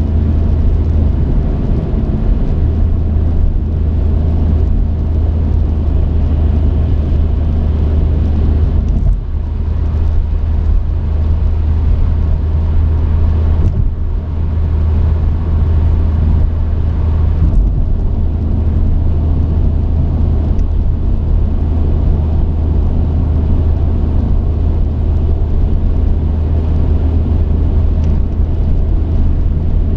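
Steady rumble of a truck's engine and road noise inside the cab while driving, with brief dips about 9 and 14 seconds in.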